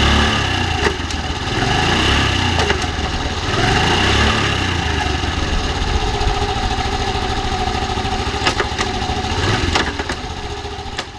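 Honda Super Cub C70's small single-cylinder four-stroke engine running steadily, with a few sharp clicks over it, fading out near the end.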